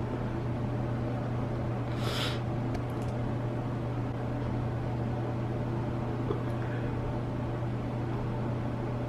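Steady low mechanical hum of a running appliance, with a brief hiss about two seconds in.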